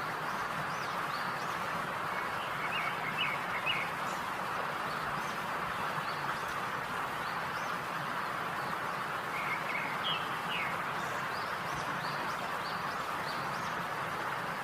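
Birds chirping in two short bursts of quick notes over a steady hiss.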